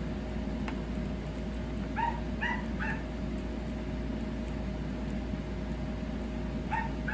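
Small dog yipping: three short, high barks about two seconds in, and three more near the end, over a steady low hum.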